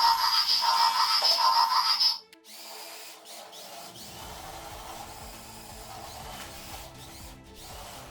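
Remote-control Optimus Prime toy truck's electric motor whirring in a loud, pulsing burst that cuts off suddenly about two seconds in. Quieter background music follows.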